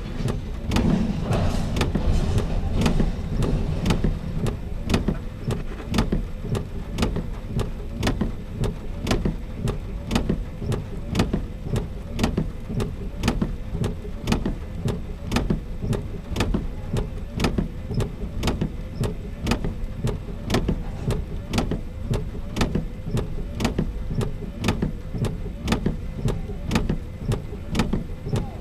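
Even, regular clicking, about one and a half clicks a second, over a steady low rumble, with a short burst of extra noise in the first few seconds.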